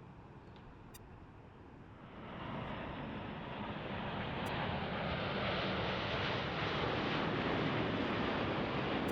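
Jet airliner engines, growing steadily louder from about two seconds in and then holding as a loud, steady roar as the plane passes close by.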